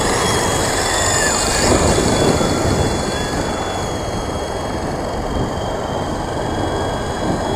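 Gusting wind buffeting the microphone over the steady high whine of a WLtoys V913 RC helicopter's brushless motor and rotors in flight.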